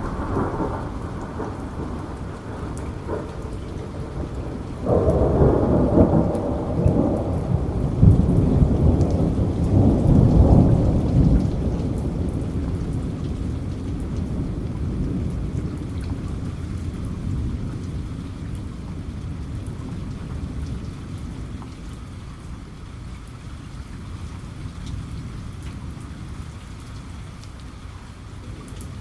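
Steady heavy rain, with a thunderclap breaking suddenly about five seconds in. The thunder rumbles loudly for several seconds, then dies away slowly under the rain.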